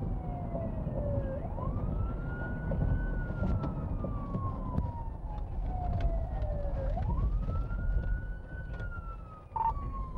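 Police car siren on a slow wail. It rises quickly, then falls slowly over about four seconds, twice. Under it is the steady low rumble of the pursuing car's engine and road noise.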